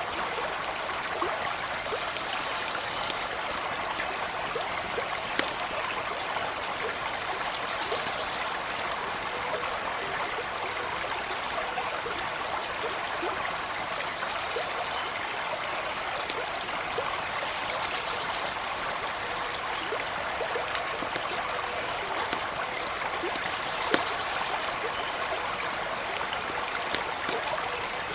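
A small stream running steadily, with scattered sharp pops and crackles from a campfire over it; one pop near the end stands out louder.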